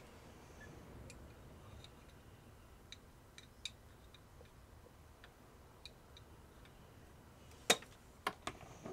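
Light, scattered clicks and taps of small plastic parts being handled while hot-gluing, with three louder sharp clicks close together near the end.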